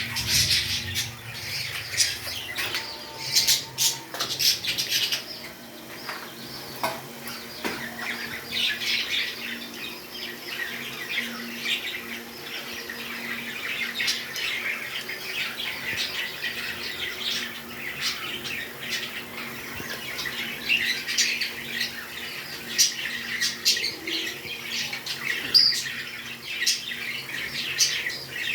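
Pet parrots chirping and squawking: a busy, unbroken stream of short, high-pitched calls, with a few sharp clicks.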